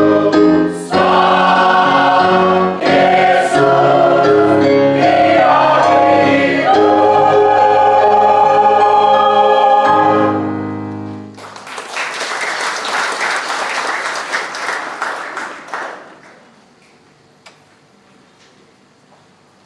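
Church choir singing, ending on a long held chord that stops about eleven and a half seconds in; applause follows for about four seconds and dies away.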